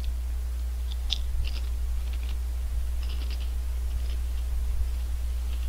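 Honey Tong Tong potato chips being crunched and chewed, in short crisp crackles about a second in and again around three to four seconds, over a steady low hum.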